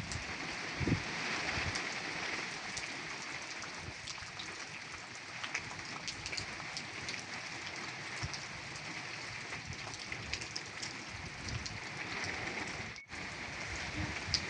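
Heavy rain falling steadily, with many separate drops ticking through it; the sound drops out for an instant near the end.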